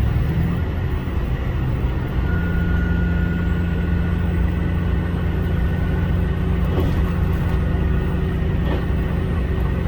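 HOT7000 series diesel railcar running, a steady low engine and running rumble, with a steady low hum joining about two seconds in and a faint rising high whine.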